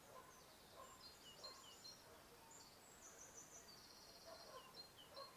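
Near silence, with faint bird chirps and short trills scattered throughout.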